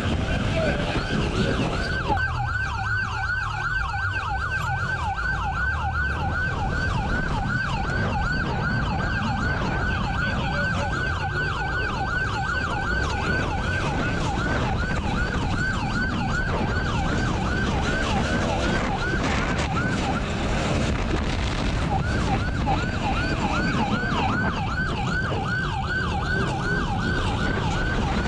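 Police siren in a fast yelp, about four rising sweeps a second, with the rush of vehicle engine and wind noise underneath.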